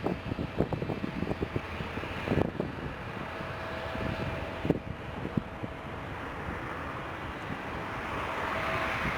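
Jet airliner engines running at an airport, a steady whine over a rushing noise that grows louder near the end, with wind buffeting the microphone.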